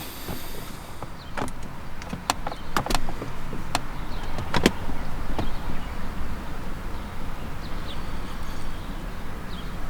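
A handful of sharp clicks and knocks in the first five seconds or so, like the handling of gear or a fitting, over a steady low rumble.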